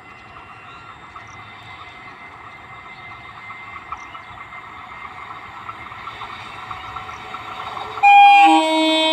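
An approaching Indian Railways EMU local train, its steady running sound with a thin whine growing louder for about eight seconds, then a loud train horn blast starting near the end.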